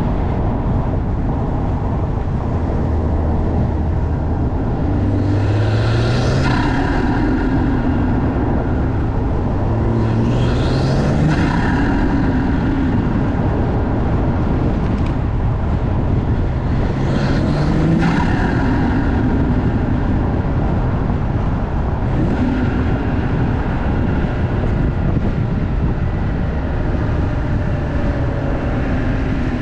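2020 BMW M340i's B58 turbocharged inline-six with an MST cold air intake, accelerating in several pulls, the engine pitch rising with each, over a rush of intake noise.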